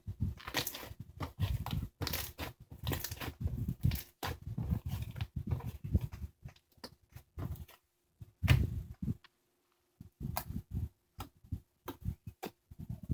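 Handmade watermelon-sherbet slime being squished and pressed by hand, giving irregular crackles, pops and soft squelches, with a pause about two-thirds of the way in.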